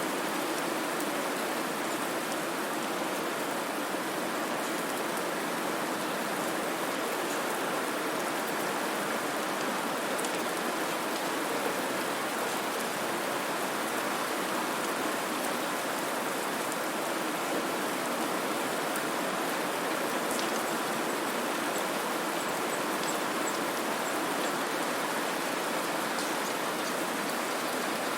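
Steady white-noise hiss, even and unchanging, with a few faint scattered ticks.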